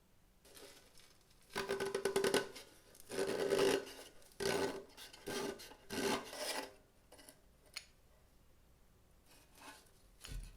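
Hand scraping strokes on a rusty metal lamp body: about five strokes close together, with the metal ringing faintly under them, then a few light taps near the end.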